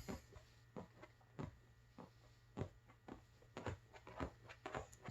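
Faint, scattered light taps and clicks, a few more close together near the end, over a low steady room hum.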